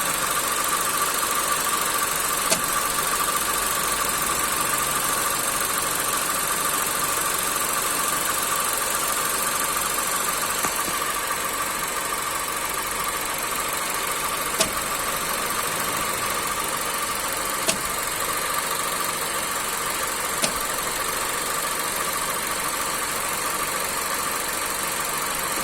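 2014 Golf engine idling steadily with a steady whine, while the clutch and flywheel area gives four single sharp knocks at irregular, intermittent moments. The mechanic takes the knocks for a broken dual-mass flywheel whose springs have play.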